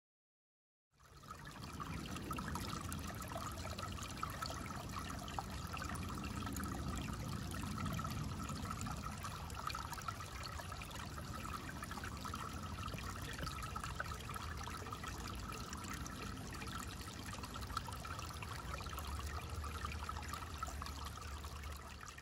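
Woodland stream trickling, a steady rush of water that fades in about a second in.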